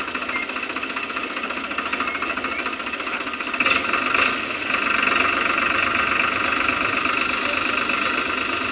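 Heavy diesel engine running steadily with a fast knocking beat. It swells briefly about four seconds in, then settles at a slightly higher level.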